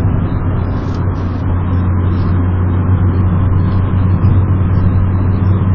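Car's engine and road noise at high speed, heard from inside the cabin: a steady low drone.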